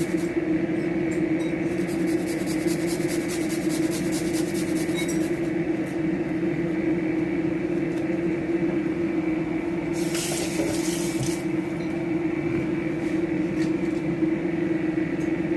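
Garlic being grated on a metal grater: quick, rhythmic scraping strokes for about the first five seconds, over a steady low hum. A short hiss comes about ten seconds in.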